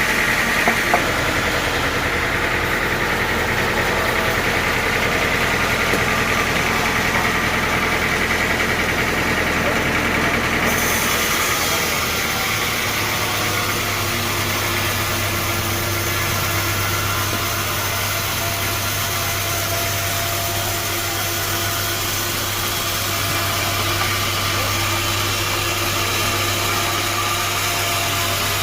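Sawmill machinery running steadily, a continuous engine-like drone. About eleven seconds in the sound changes abruptly to more hiss and a strong low hum, then carries on steadily.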